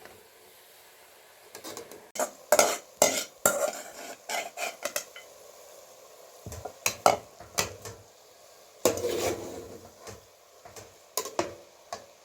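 Dishes, pots and utensils clinking, knocking and scraping in irregular runs, with short pauses between.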